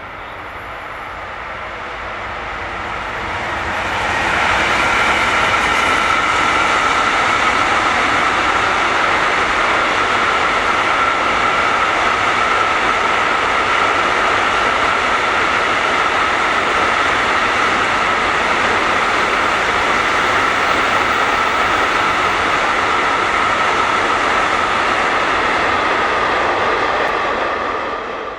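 A train running past close by on the main line: its noise builds over the first few seconds, then holds loud and steady with a constant high tone running through it, and stops abruptly at the end.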